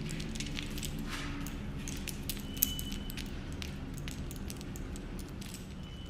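Packaging being handled and opened by hand: irregular crinkling and crackling with scattered clicks, and one sharp snap near the middle.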